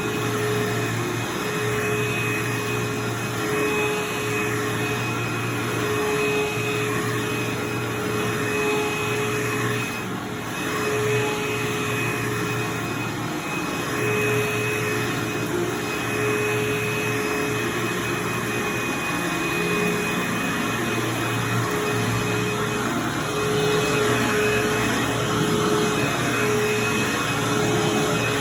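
Vacuum cleaner running steadily over carpet: a constant rushing hum with a thin high whine on top.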